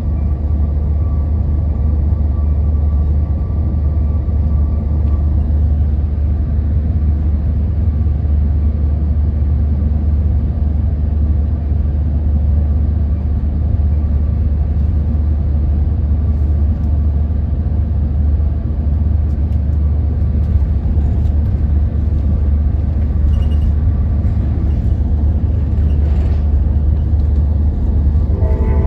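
Amtrak Capitol Corridor passenger train running along the line, heard from inside the passenger car: a steady low rumble of wheels and track with a faint steady whine above it.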